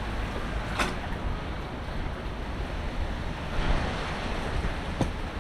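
Steady wash of rain and wind on an action camera's microphone, with a low rumble of wind buffeting. A sharp click comes about a second in and another near the end.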